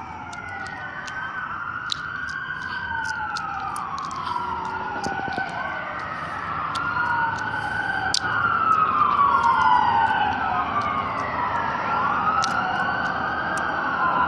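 Ambulance siren wailing in slow rising and falling sweeps, growing louder to a peak about nine seconds in as the medic truck passes.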